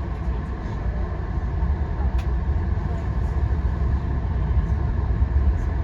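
Passenger train running at speed, heard from inside the coach: a steady low rumble with a faint tick about two seconds in.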